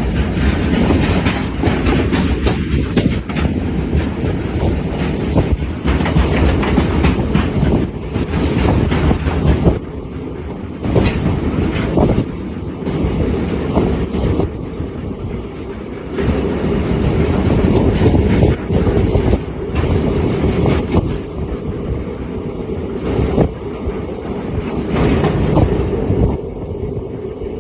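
Goods train running past, its wagons' wheels clicking over the rail joints in a continuous rolling clatter.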